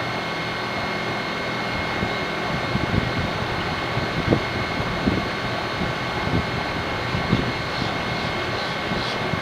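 A 2007 American Standard heat pump's outdoor unit running: a steady whoosh of air from the fan with a steady hum of several tones, broken by irregular low thumps.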